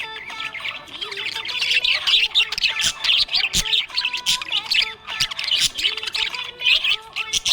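Budgerigars chirping and squawking in a rapid, continuous chatter of short high calls.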